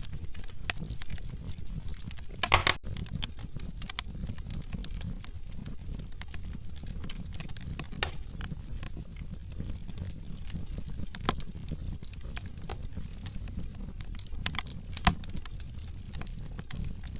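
Logs burning in a fireplace, crackling with scattered sharp pops over a steady low rumble. A quick cluster of louder pops comes about two and a half seconds in, and single loud pops come around eight and fifteen seconds in.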